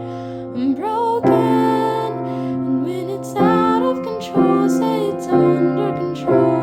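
Slow, tender piano music: sustained chords struck anew about once a second, with a woman singing a slow melody with vibrato over them.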